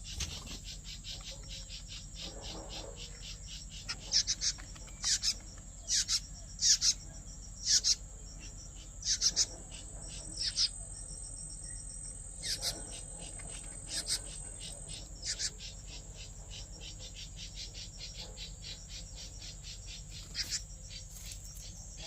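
A steady, rapid high-pitched trilling of crickets or other insects throughout, with a run of loud, short, sharp bird chirps in the middle and one more pair near the end.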